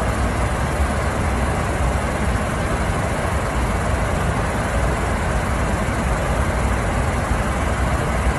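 Steady cockpit drone of an airliner in flight: an even rush of engine and airflow noise, heaviest in the low end, with no change throughout.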